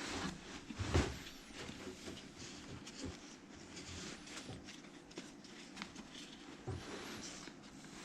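Quiet handling noises: nylon webbing rustling and small clicks of a metal D-ring being turned around on the strap, with one louder knock about a second in.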